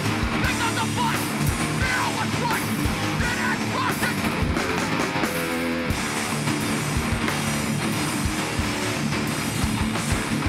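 Live hardcore band playing loud distorted electric guitars, bass and drums. About five seconds in, the drums thin out for a moment while a held guitar note rings.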